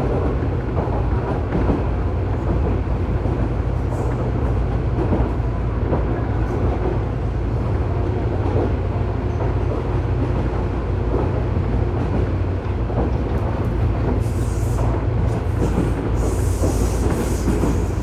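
Running sound inside a Tobu 9000-series electric train car, recorded above the armature chopper controller of a car known for an abnormal chopper noise. The wheels on rail make a steady low rumble, and a high hiss comes up in the last few seconds.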